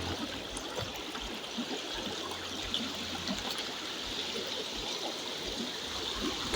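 Running water: a steady rushing, trickling sound.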